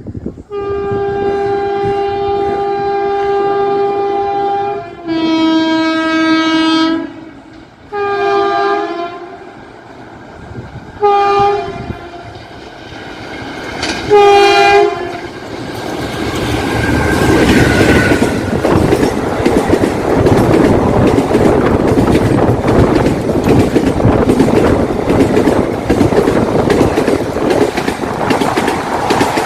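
Twin-tone horn of a WAP-4 electric locomotive: a long blast on the higher tone, then about two seconds on the lower tone, then three short blasts, the last one the loudest. Then the train runs past close by, a rising rumble with the rhythmic clatter of the ICF coaches' wheels over the rail joints.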